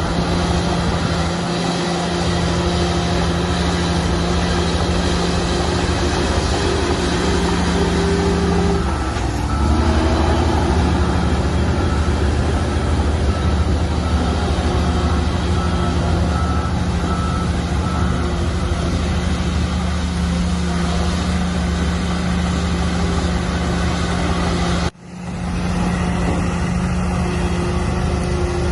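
Heavy diesel earthmoving machinery running steadily, its engine note shifting about nine seconds in. A faint reversing alarm beeps about once a second for a stretch in the middle. The sound drops out briefly near the end.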